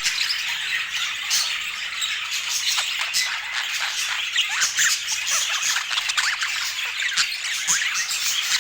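Budgerigars chattering: a continuous stream of short chirps, squawks and warbles, many overlapping at once.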